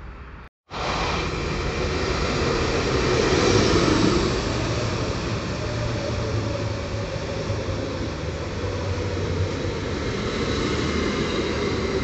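Koleje Mazowieckie electric multiple unit running past along the platform at close range: steady rumble of wheels on rail. It is loudest a few seconds in and stays fairly even as the carriages go by. The sound cuts in abruptly about half a second in.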